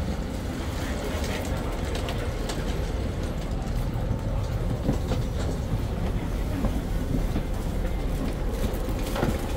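Taipei Metro train running on the track: a steady low rumble with scattered wheel clicks.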